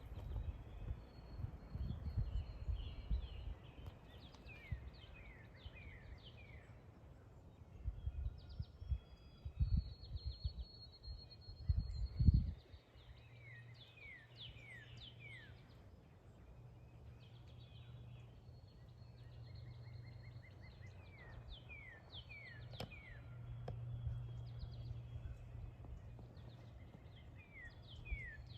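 Songbirds chirping repeatedly in short downward-sweeping notes, over wind buffeting the microphone in gusts through the first half, the strongest gust about twelve seconds in; after that a steady low hum continues under the birds.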